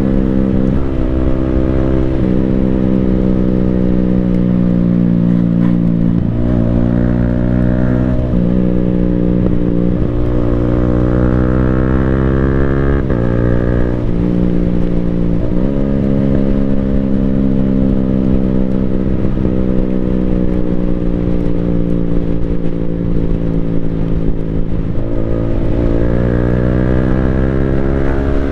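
Yamaha Sniper 155R's single-cylinder engine running through an Akrapovic full-system exhaust while riding. The revs climb and drop abruptly several times as gears change, with stretches of steady or slowly falling engine pitch in between.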